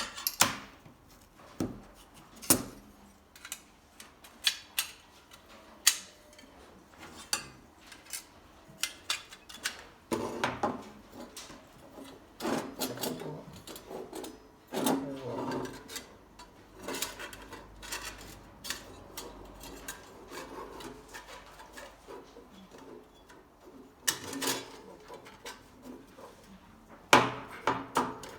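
Irregular sharp clicks and knocks, like objects being handled and set down, with several longer stretches of rubbing or scraping.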